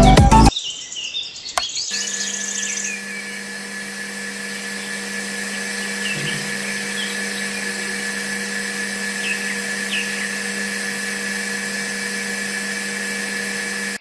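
Small electric motor running at a steady speed with a high, even whine, starting after a click about two seconds in.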